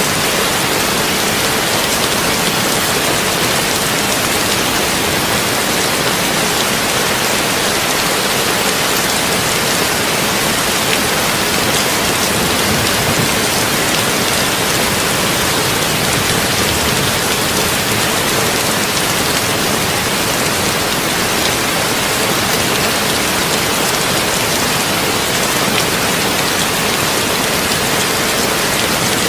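Heavy rain drumming steadily on a tin roof, a dense, even hiss.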